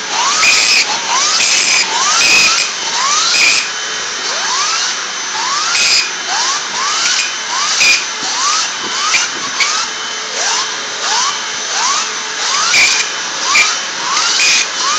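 Hoover WindTunnel Anniversary Edition bagged upright vacuum running with its suction-driven upholstery brush tool, which has a small brush that turns with the airflow, working over fabric. A steady rushing hiss is broken by a short rising whistle about twice a second.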